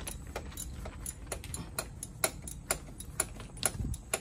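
Ratchet wrench clicking at about four clicks a second as it is worked back and forth, backing out a starter mounting bolt from under the car, with a low knock near the end.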